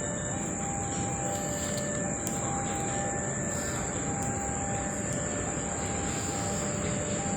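Passenger train moving slowly during shunting: a steady rumble of the locomotive and carriages on the rails, with a steady high whine and thin tones that come and go.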